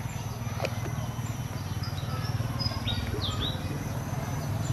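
Several short, high bird chirps, clustered between about two and three and a half seconds in, over a steady low hum.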